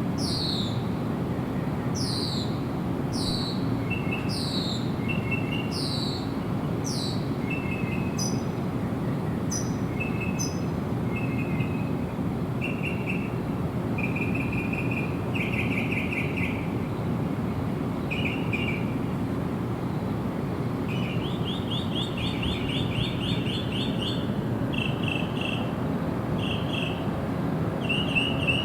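Wild birds calling and singing over a steady low background noise. For the first several seconds one bird repeats a high note that slides down in pitch about once a second. After that come shorter, lower notes and trills, with a fast trill about two-thirds of the way through.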